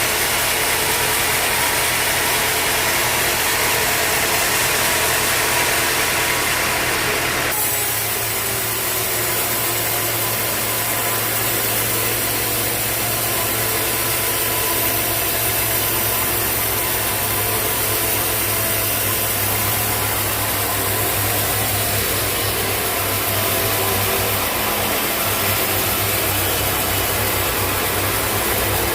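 Sawmill machinery running steadily, with an engine hum under a noisy wash. The sound changes abruptly about seven and a half seconds in and loses some of its high hiss.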